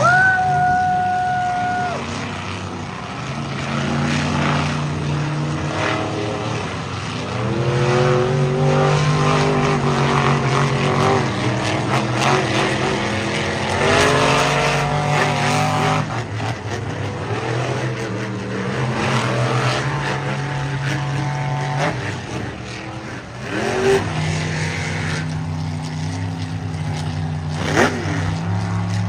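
Monster truck engines revving, the pitch rising and falling again and again over a steady loud drone, after a steady high tone that lasts about two seconds at the start.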